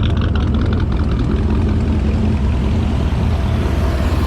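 Truck engine running steadily, a low rumble.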